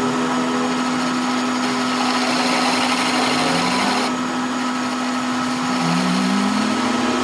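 Electric motor of a workshop power tool running steadily with a strong, even hum and a high, hissing edge. A fainter lower tone rises in pitch twice, around the middle and near the end.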